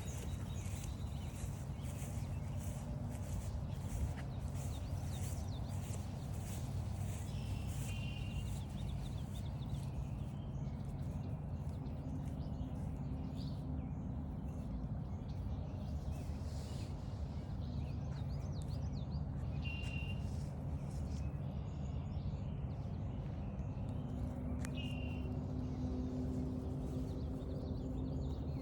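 Footsteps walking along a forest trail over a steady low rumble, with short bird calls now and then. The steps are steady and even through the first half.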